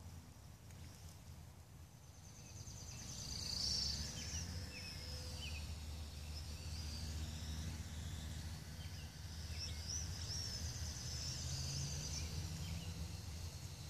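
Birds chirping, with many short rising and falling calls starting about three seconds in, over a steady low rumble of outdoor background noise.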